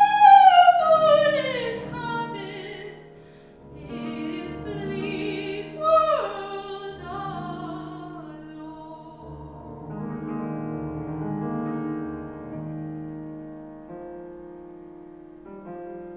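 Classical soprano singing with piano accompaniment: a high note with vibrato that falls away, a second short phrase about six seconds in, then the piano playing on alone.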